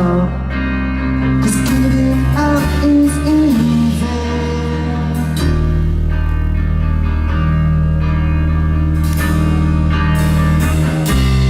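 Live rock band playing a song, electric guitar chords over a steady bass line, with some singing.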